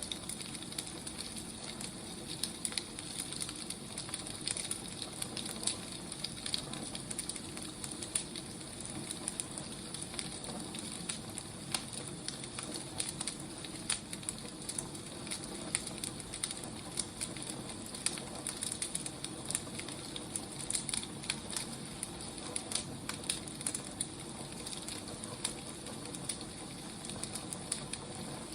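Burning firewood crackling: a steady hiss with frequent, irregular pops and snaps.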